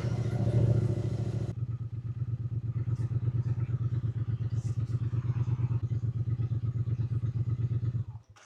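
Triumph Speed Twin 900's parallel-twin engine running under way briefly, then idling with an even pulsing beat. It is switched off about eight seconds in and cuts out suddenly.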